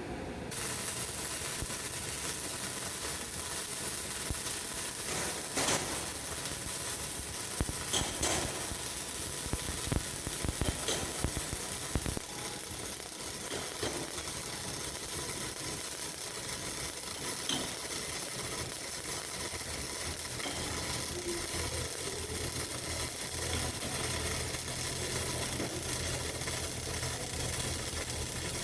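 MIG welding arc on steel pipe: a steady crackling hiss that starts abruptly just after the opening, with a few louder pops during the first half.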